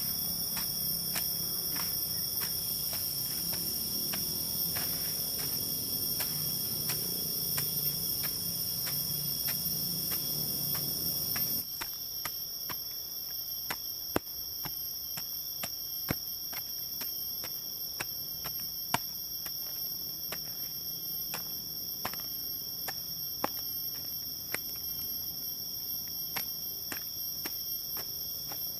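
Chorus of forest insects, crickets or cicadas, chirping steadily at several high pitches, with faint regular clicks about twice a second. About twelve seconds in a low background rumble drops out abruptly, and a few sharper knocks follow.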